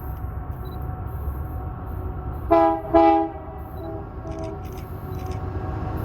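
Freight locomotive air horn sounding two short blasts about half a second apart, followed by fainter horn tones. Under it runs the low rumble of the train, growing louder near the end.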